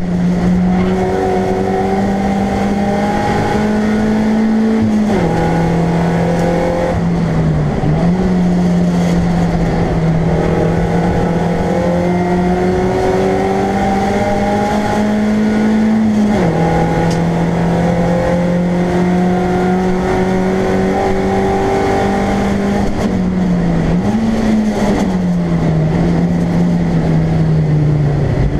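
BMW Compact race car's engine heard from inside the stripped cabin, running hard at racing revs, with the pitch climbing and falling as the driver shifts gear. The revs drop sharply about five and sixteen seconds in, and dip then rise again briefly near eight and twenty-four seconds.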